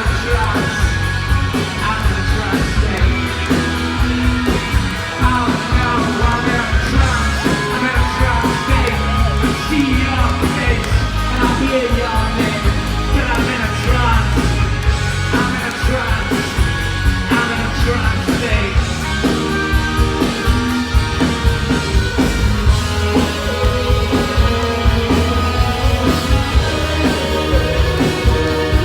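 Live rock band playing loudly: a steady drum beat, guitars and a singing voice.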